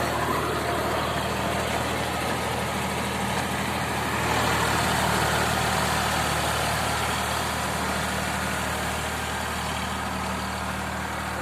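Eicher 551 tractor's diesel engine running steadily while working a rotavator, getting a little louder about four seconds in.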